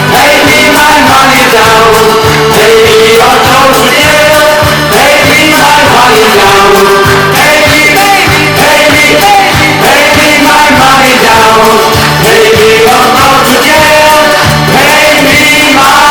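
Live folk band playing an upbeat song at full volume, a melody line over a steady rhythmic beat.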